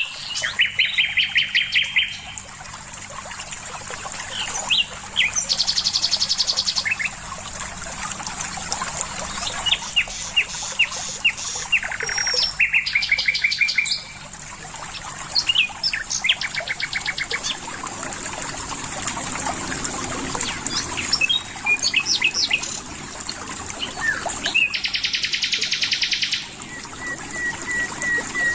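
Songbirds singing in short phrases of rapid trilled notes every few seconds, over a steady background of running water.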